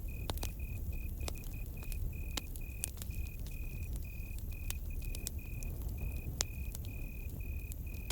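Campfire crackling with scattered sharp pops over a low rumble, while a cricket chirps in a steady run of short, evenly spaced pulses.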